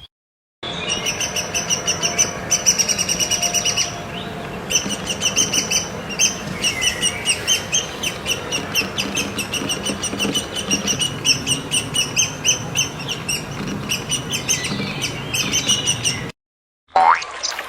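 Birds chirping in rapid, repeated short calls, several a second, as a busy chorus. The chirping starts about half a second in and cuts off near the end.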